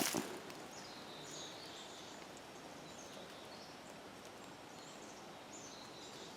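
Faint birds chirping in short calls, scattered throughout, over a quiet steady outdoor background.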